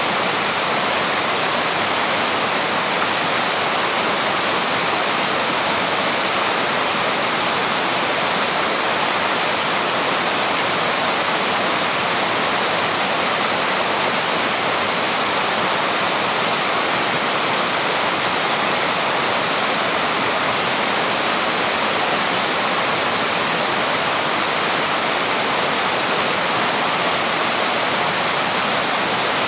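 Waterfall pouring steadily, an even rushing of falling water with no break or change.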